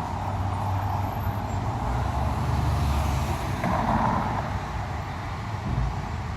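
Road traffic: a car's engine and tyres with a steady low rumble, swelling around the middle as a vehicle goes by.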